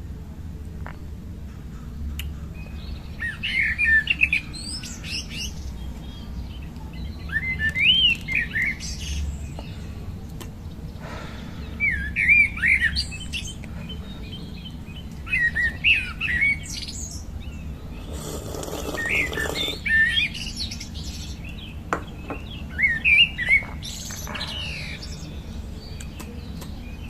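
A songbird repeating a short, warbling chirp phrase about every four seconds, over a steady low hum. A brief rushing noise comes about two-thirds of the way through.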